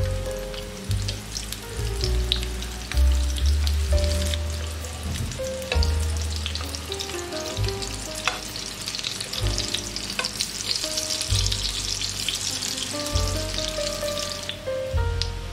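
Parsley-and-egg patties sizzling in shallow oil in a nonstick frying pan as they are turned with a metal spatula, with scattered pops and clicks throughout.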